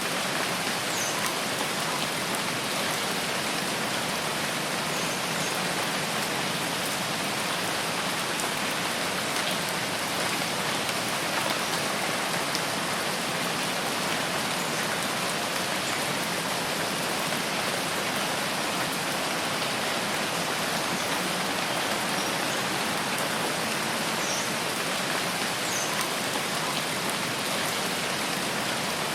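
Steady rain falling through forest foliage, an even hiss with scattered faint drop ticks.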